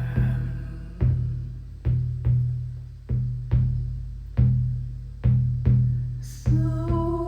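Deep shamanic hand drum beaten in a slow, steady pulse, some strokes falling in close pairs, each one ringing and fading. About a second before the end, a held humming vocal tone joins it.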